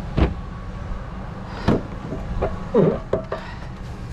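Four separate knocks and clunks of objects being handled, over a steady low rumble.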